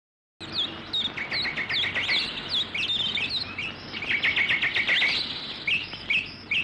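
Small birds chirping, a mix of quick falling whistles and fast runs of short notes. The chirping starts abruptly and stops abruptly.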